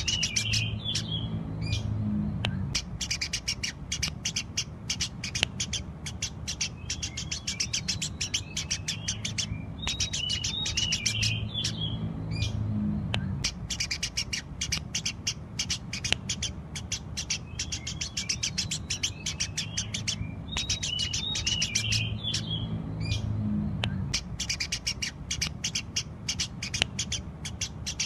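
Eurasian tree sparrows chirping rapidly and without pause, a dense run of sharp cheeps. A low rumble swells and fades every ten seconds or so.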